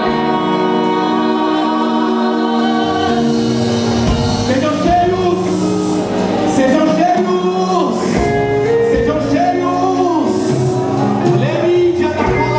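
Live gospel worship music: singing over held instrumental chords, with drum hits and cymbal washes coming in about four seconds in.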